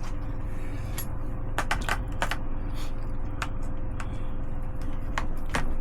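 Cutlery clicking and scraping against the meal's dish while chicken breast is cut, with irregular light clicks over a steady low hum.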